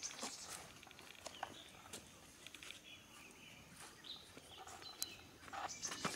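Faint, scattered bird chirps, short high calls dotted through an otherwise quiet background.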